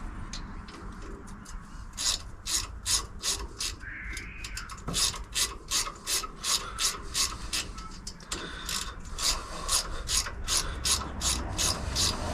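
Ratchet wrench clicking in rapid runs, about three to four clicks a second, with a short pause partway through, as nuts and studs are worked loose on the engine's intake.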